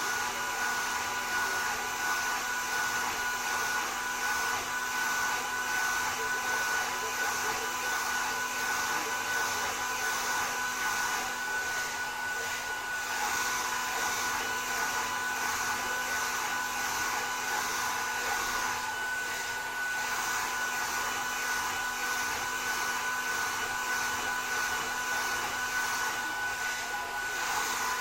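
Hand-held hair dryer blowing steadily, an even rush of air with a steady high whine from its motor.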